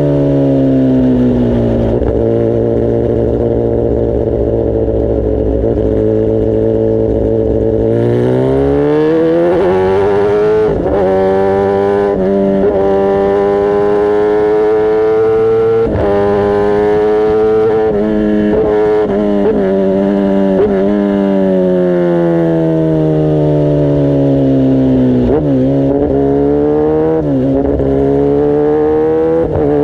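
Kawasaki ZX-10R's inline-four engine and exhaust under way. The pitch eases off and holds steady, then rises from about a quarter of the way in with several quick breaks in pitch, like gear changes. It drops back again later and climbs once more near the end.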